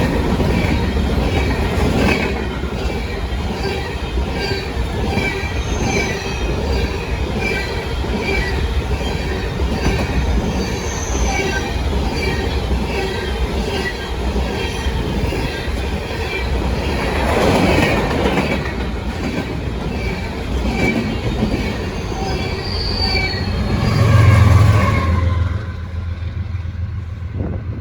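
Freight cars rolling past, their steel wheels clicking and squealing on the rails. Near the end a rear-train DPU diesel locomotive passes with a loud low engine hum, and then the train's sound falls away suddenly as it goes by.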